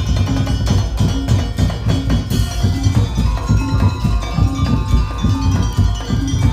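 Madurese daul music ensemble playing: low drum strokes about three times a second with clattering percussion, and held pitched melody notes over them.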